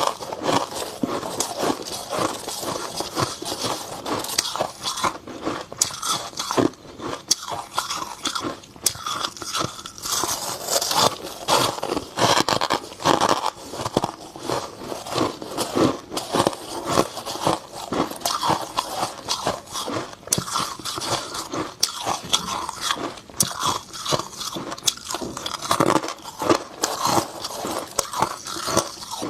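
Close-up biting and chewing of dry freezer frost: dense, crisp crunching that goes on without a break.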